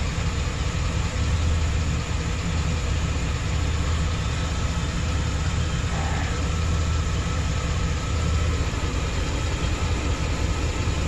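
2008 Chevrolet Express van's engine idling with one cylinder's injector shut off by a scan-tool power balance test. The steady idle has an uneven low pulse, and the engine already has a lean misfire, suspected to come from a faulty injector.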